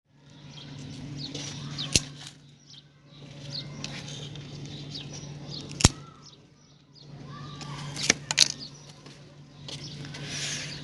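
Birds chirping in short calls over a steady low hum, broken by four sharp clicks, two of them close together near the end.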